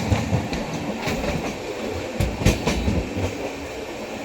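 Poorva Express passenger train running on the track: a steady rumble with wheels clacking over rail joints, and two louder knocks a bit over two seconds in.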